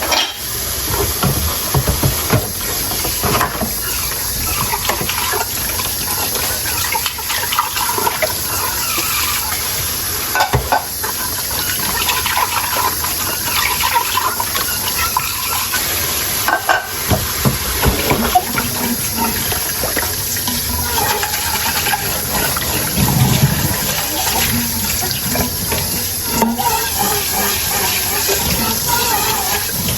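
Tap water running steadily into a kitchen sink while dishes are washed by hand, with occasional knocks and clinks of dishes against each other and the sink.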